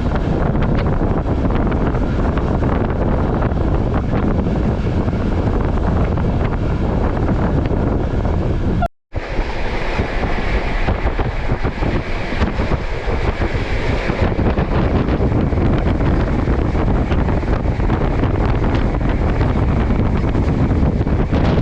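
Passenger train running along the line, heard from on board: a steady rumble of wheels on the rails with wind rushing over the microphone. The sound cuts out for a moment about nine seconds in, then carries on with a brighter hiss for a few seconds before settling back.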